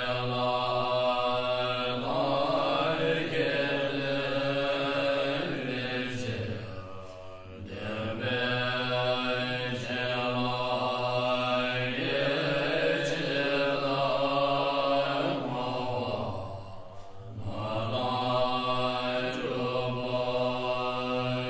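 A low voice chanting a mantra in long, sustained tones, with breaks about seven and seventeen seconds in.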